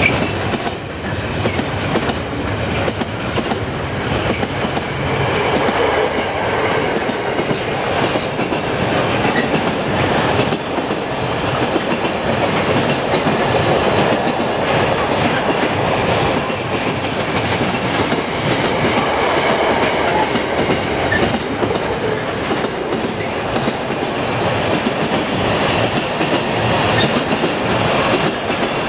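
Container flat wagons of an intermodal freight train rolling past, their wheels rumbling and clattering steadily over the rail joints.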